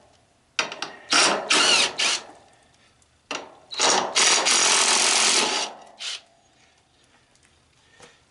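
Handheld power driver run in several short bursts, then one longer run of about two seconds, at the start of taking apart an old tanning bed.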